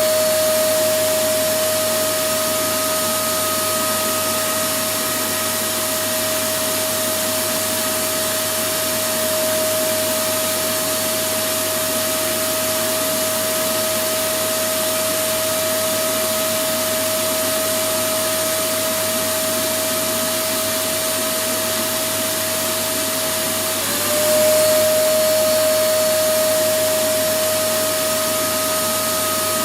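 Electric vacuum cleaner running continuously as white noise: a steady rushing of air with a high motor whine. The whine dips briefly and picks up again about four-fifths of the way through.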